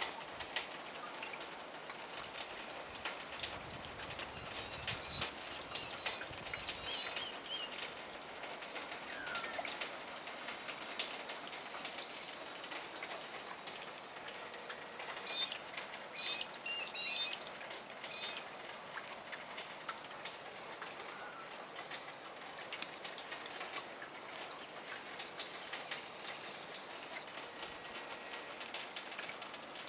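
Steady light patter of drips and wet snow falling. Over it, small birds give two short bursts of high chirping, a few seconds in and about halfway through.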